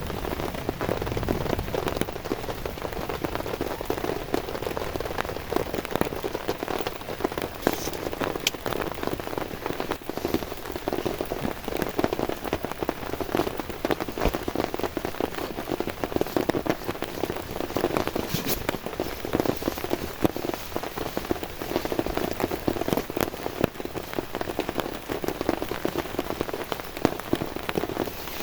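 Heavy rain falling steadily, a dense, unbroken mass of drops striking a surface.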